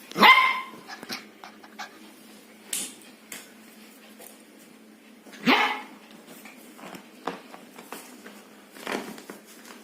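A dog barking: a loud bark right at the start and another about five and a half seconds in, with fainter yips between and near the end, a dog asking to be let down from a bed.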